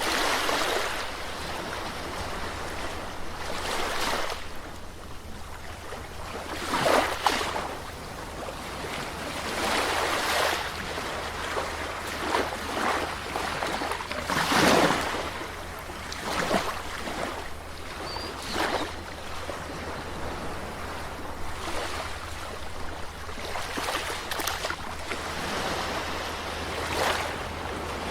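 Calm sea waves breaking and washing on a shore, one small wave after another every second or two, with a steady low rumble of surf underneath.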